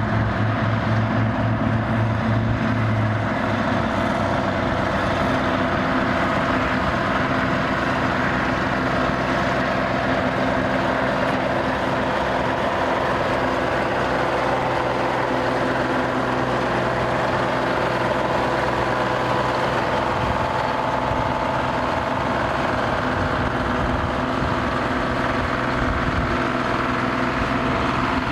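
1940s Allis Chalmers road grader's engine running steadily, with a change in its low note about three seconds in.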